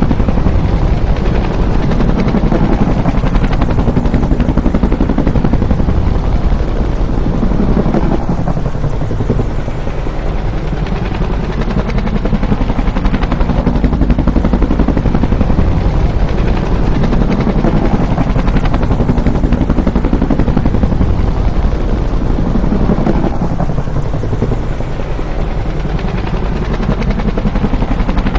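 Bell UH-1 "Huey" helicopter's two-blade main rotor chopping loudly and steadily, easing off a little twice and swelling back up.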